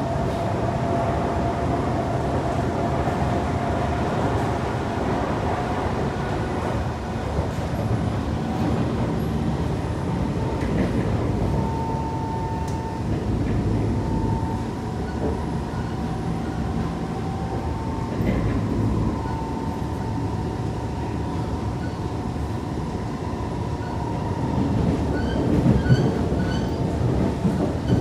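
Kawasaki C151 metro train running along the line, heard from inside the car: a steady rumble of wheels on rail with a held whine. Near the end it grows louder, with short high squeals.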